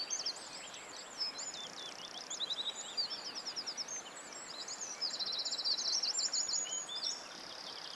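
Songbirds singing: quick high whistles and sweeping notes broken by fast trills of rapidly repeated notes, with the longest trill a little past the middle.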